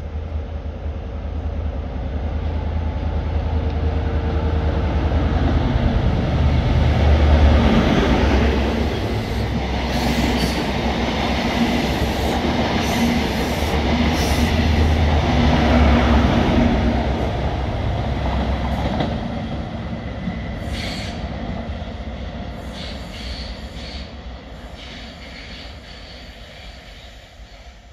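A diesel High Speed Train measurement set with Class 43 power cars at each end passes at speed. A low diesel engine hum is loudest about seven seconds in as the leading power car goes by, and again about sixteen seconds in as the rear power car passes. Between and after, the coaches' wheels click over the rail joints, and then the sound fades away.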